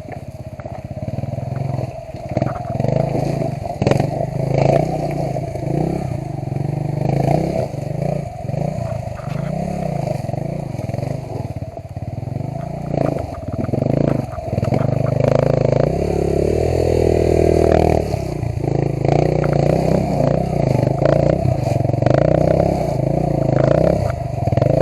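Motorcycle engine working at low speed over rough ground, its revs rising and falling repeatedly with bursts of throttle, and held steady for a couple of seconds past the middle. Clattering and scraping knocks sound over the engine throughout.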